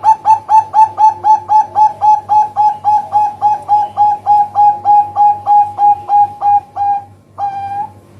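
Zebra dove (perkutut) calling: a fast, even run of short cooing notes, about four a second, which stops about seven seconds in, followed by one longer coo near the end.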